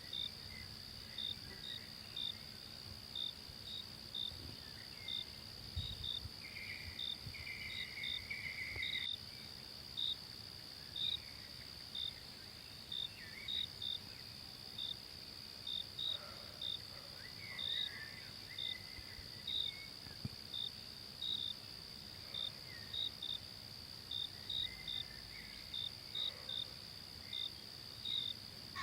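Forest insects: a steady high drone with short cricket-like chirps repeating one or two times a second, and a few faint bird calls in between.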